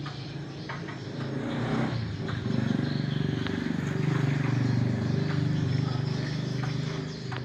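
A motor engine running steadily, growing louder about two seconds in and easing off near the end, with a few light knocks over it.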